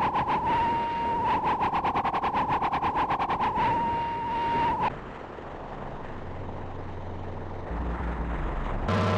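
An electronic pulsing tone, a steady high note chopped by many rapid pulses a second, cuts off suddenly about halfway through. A quieter low steady hum follows.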